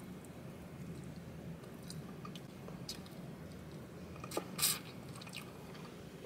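Quiet mouth sounds of someone chewing and sucking the meat off a fried chicken bone, with a few sharp wet smacks, the loudest a little after four seconds in.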